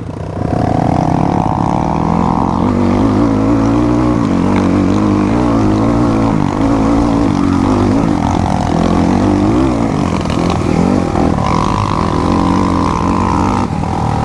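Motorcycle engine running continuously, its pitch rising and falling as the throttle is opened and closed.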